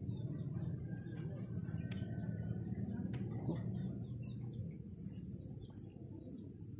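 Small birds chirping in short repeated calls over a steady low hum, with a thin steady high tone and a couple of faint clicks.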